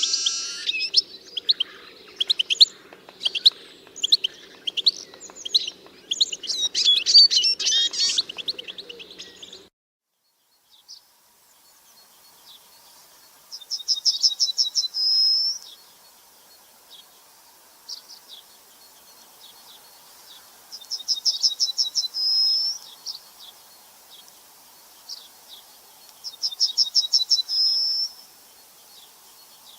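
Several birds chirping busily for about ten seconds over a low hum. Then, after a short gap, a single bird repeats a rapid trill ending on one higher clear note, three times at intervals of about seven seconds.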